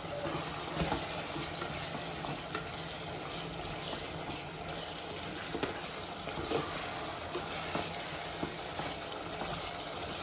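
Chicken pepper fry sizzling in a nonstick pot while a wooden spatula stirs it, with soft scrapes and small clicks against the pot. The dish is cooked through.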